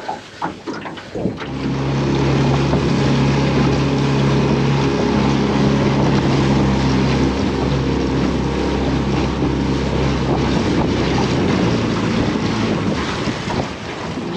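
Outboard motor of a small aluminium tinny running steadily under way, with wind noise on the microphone. The motor comes up about a second and a half in and eases off near the end.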